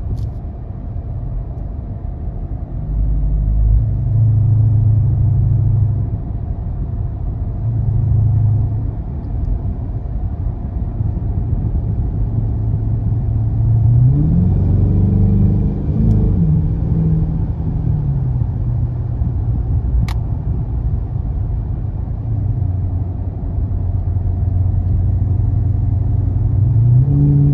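Straight-piped (muffler and resonator deleted) Dodge Charger R/T's V8 exhaust rumbling steadily in default mode. It rises and falls in pitch under throttle around the middle, and rises again near the end.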